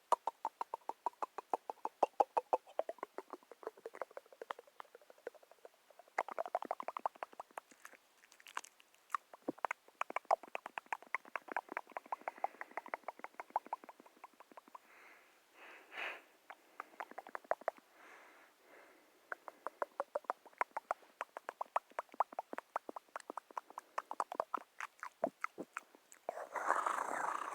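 Rapid runs of small crisp clicks, many a second, with short pauses between runs: close-miked ASMR trigger sounds.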